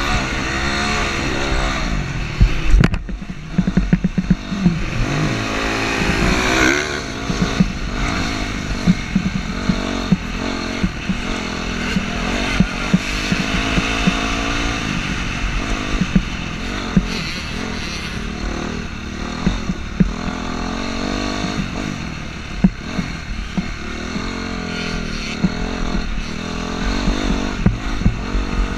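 Dirt bike engine revving up and down as the bike is ridden around a motocross track, its pitch rising and falling. Frequent short knocks run through it, with a sharp one about three seconds in.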